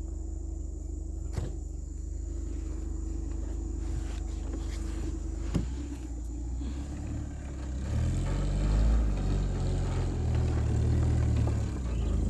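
Engine of a Volkswagen Santana heavily loaded with firewood, running steadily and then revving up and growing louder about seven seconds in, with two sharp knocks earlier on.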